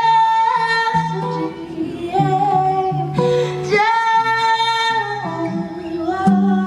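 Female voice singing long, held notes that slide between pitches, over acoustic guitar.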